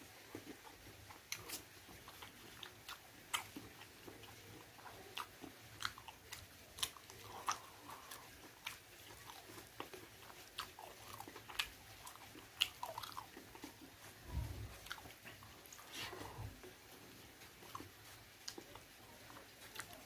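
A person chewing and biting pork close to the microphone, with irregular sharp, crunchy mouth clicks throughout and two low bumps about three quarters of the way in.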